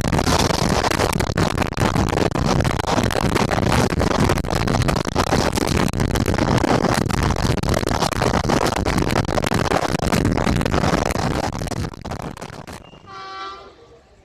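Train passing close at speed: a loud rush of wheel and air noise with rapid clicks of the wheels over rail joints, which cuts off abruptly near the end. A short train-horn blast follows.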